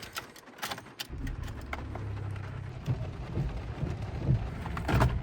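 Pickup truck engine running with heavy rain falling on the truck. A few clicks and taps come in the first second, then the steady low engine sound starts about a second in, with a few louder raindrop taps over it.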